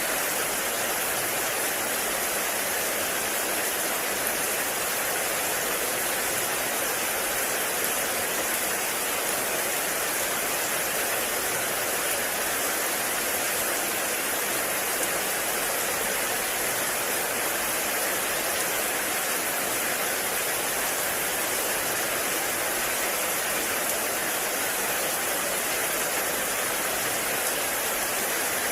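Heavy rain falling steadily, an even, unbroken hiss with no distinct drops or gusts standing out.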